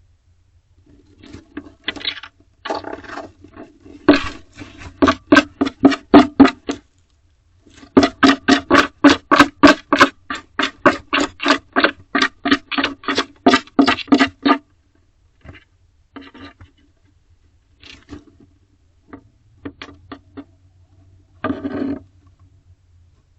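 Female barn owl scratching at the wooden wall of the nest box, a fast rhythmic scraping at about four strokes a second in two long runs, with shorter scattered scrapes around them.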